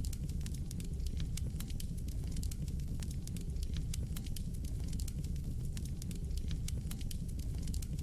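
Fire burning in a fireplace, crackling steadily with many irregular sharp pops and snaps over a low rumble of the flames.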